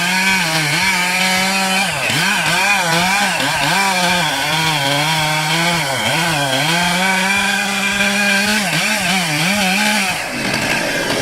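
A small engine running at high revs, its pitch dipping and recovering again and again as if it is being loaded. About ten seconds in it gives way to a rougher, noisier sound.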